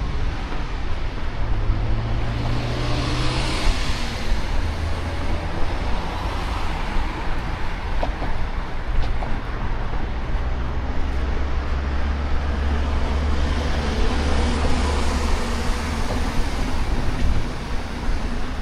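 Road traffic: a steady hum of cars, with vehicles swelling past about three seconds in and again near the end.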